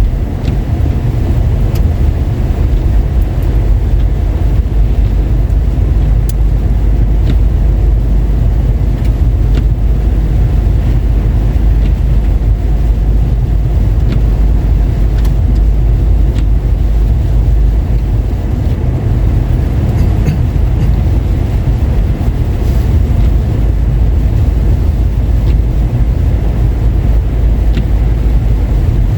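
A car driving on a road wet with rain and snow: a steady low rumble of tyres and engine, with a few faint ticks here and there.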